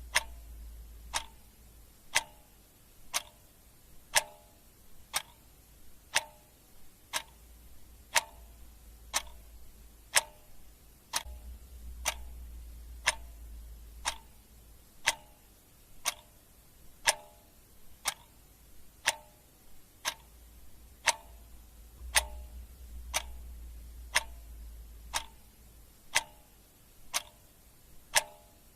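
Clock ticking at a steady, even rate, about one tick a second.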